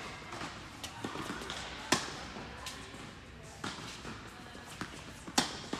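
Tennis balls struck by rackets during a rally: two sharp hits about three and a half seconds apart, with fainter taps between them.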